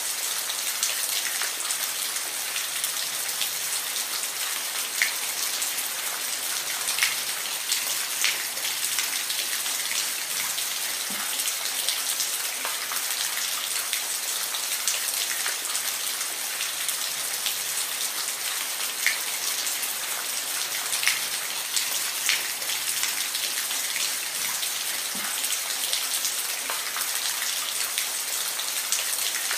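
Steady rain falling, an even hiss with scattered louder drips striking a surface.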